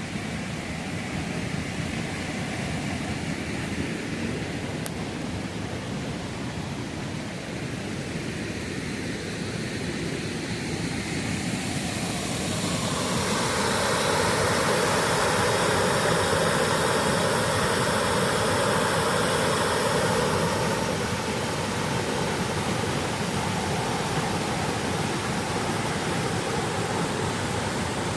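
Steady rush of stream water tumbling over a waterfall, swelling louder for several seconds about halfway through.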